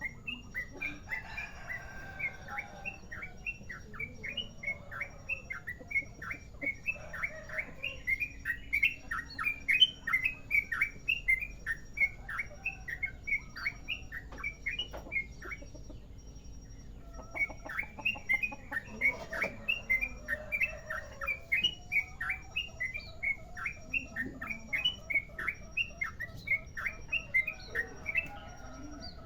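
Yellow-vented bulbul (trucukan) singing a long rapid series of short, sharp chirping notes, about two to three a second, broken once by a short pause about halfway through.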